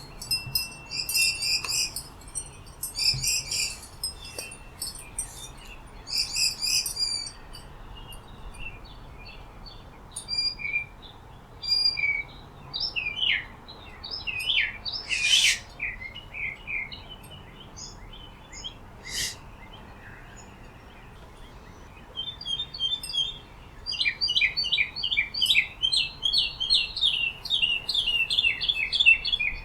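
Wild birds chirping and singing: clusters of short, high chirps in the first few seconds, scattered slurred notes through the middle, and a fast run of repeated chirps over the last several seconds.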